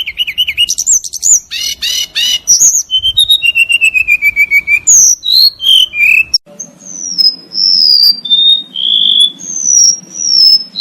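Recorded songbird song: about six seconds of fast, varied chirps and trills, then an abrupt cut to a different recording of clear, drawn-out whistled notes that slide down in pitch.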